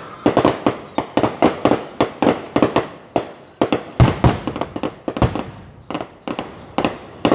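Firecrackers going off in a rapid, irregular string of sharp bangs, about three or four a second, each with a short echoing tail. Two heavier, deeper bangs come about halfway through.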